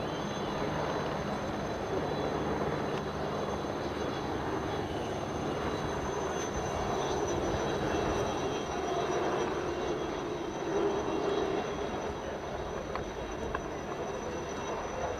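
Formula One car engines heard from afar as a steady mechanical drone that swells a little around the middle.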